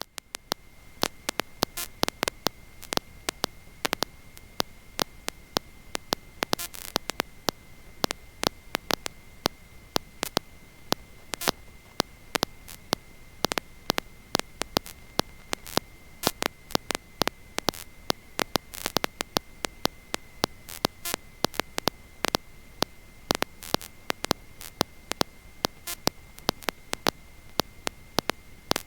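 Electrical static in the audio line: irregular crackling clicks over a steady high-pitched whine, with no engine sound coming through.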